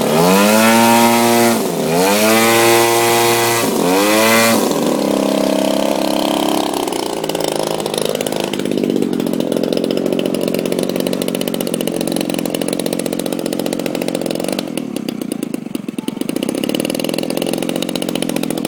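Small combustion engine of a radio-controlled model airplane. Its pitch swings sharply down and back up three times in the first few seconds, then it runs on as a steadier drone that wavers a little in pitch.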